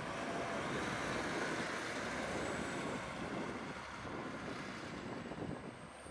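Heavy wood-chipping machinery running with a dense, rough mechanical noise that eases off somewhat after about the halfway point.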